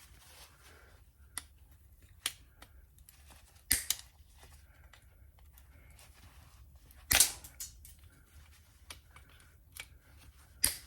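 Diagonal cutters snipping through a plastic wire tie, with lighter clicks of the tool and parts being handled. Scattered sharp snaps, the loudest about four, seven and ten and a half seconds in.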